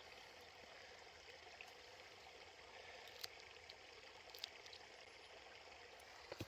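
Faint, steady flow of a stream, with a few soft clicks.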